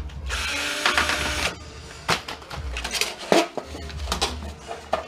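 Sheet-metal parts of an old electric coil stove clattering and scraping while it is taken apart by hand: a rasping scrape in the first second and a half, then a run of irregular knocks and clicks.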